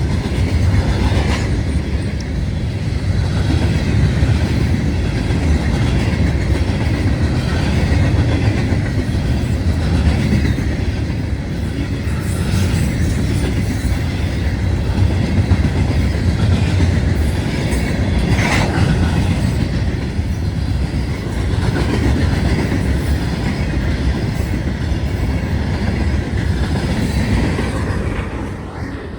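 CSX freight train cars rolling past at close range: a steady rumble of steel wheels on rail with repeated clicks from wheels crossing rail joints, and one sharper sound about two-thirds of the way through.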